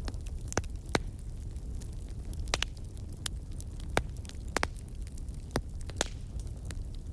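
Wood fire in a fireplace crackling, with irregular sharp pops and snaps, a handful of louder ones, over a steady low rumble.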